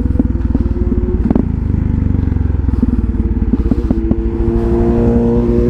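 Motorcycle engine running while riding in heavy rain, with a few sharp clicks early on and the engine pitch rising a little near the end.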